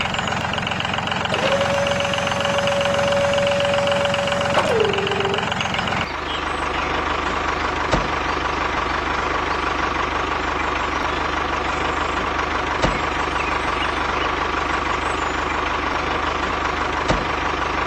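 Steady engine-like running noise of a mini tractor, with a held tone for a few seconds that then drops in pitch. About six seconds in it switches suddenly to a different steady running sound with a higher whine, with a few faint clicks.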